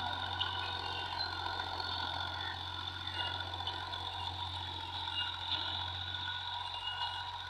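John Deere tractor's diesel engine running steadily, a constant even drone with no change in speed.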